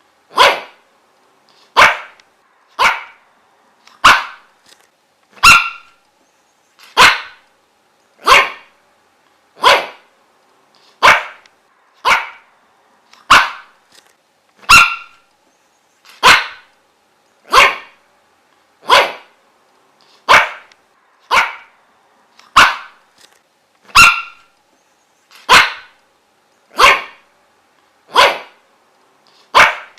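A dog barking single short barks at a steady pace, about one every 1.3 seconds. The same run of barks repeats roughly every nine seconds, as in a looped recording.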